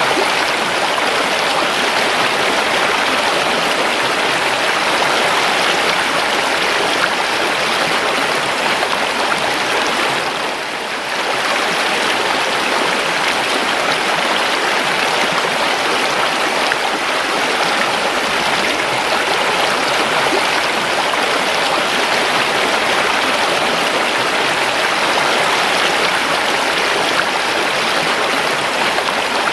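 Steady rushing of a river's flowing water, with a brief dip in level about ten seconds in.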